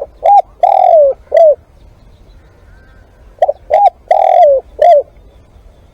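Spotted dove cooing: two phrases of four coos each, about three seconds apart. In each phrase the third coo is the longest and falls in pitch at its end.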